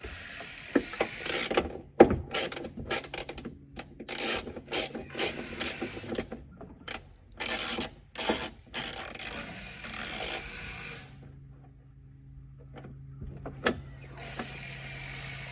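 Small 9/32 wrench working tiny nuts loose on the inside of a car's trunk lid: a run of short metallic scrapes and clicks that stops about eleven seconds in, leaving a faint steady hum.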